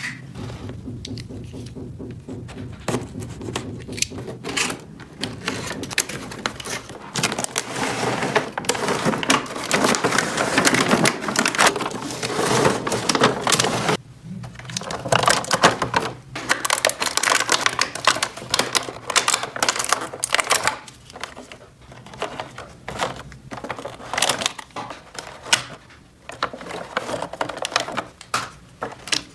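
A dense run of clicking, tapping and rustling as small plastic toy pieces and packaging are handled, busiest in the middle with a brief lull partway through.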